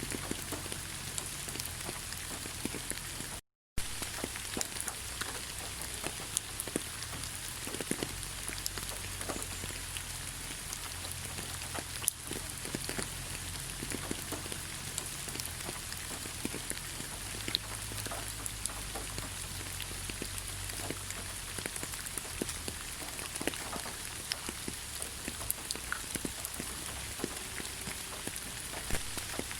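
Steady rain falling in a forest, with many separate drops striking close by. The sound cuts out completely for a split second about three and a half seconds in.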